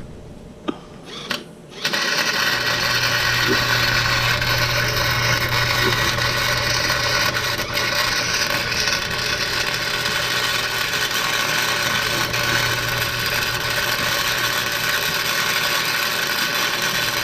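Arc welder laying a long continuous bead on the rear differential's gears to weld them solid (a "Lincoln locker"): a steady crackling sizzle over a low hum, starting about two seconds in after a couple of faint clicks.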